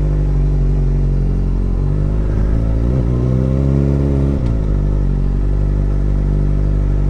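Kawasaki ZX-4R's inline-four engine idling steadily through a new aftermarket exhaust. About three seconds in, the revs rise briefly and then settle back to idle.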